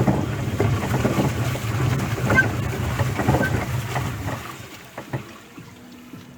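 Small hand-driven pleasure boat being worked along on the water: irregular splashes and light knocks over a low wind rumble on the microphone, which dies down about four seconds in.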